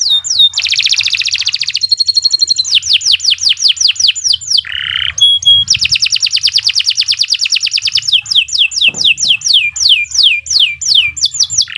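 Domestic canary singing a long unbroken song: runs of quick repeated downward-sweeping whistles, about four to five a second, alternating with fast, dense trills.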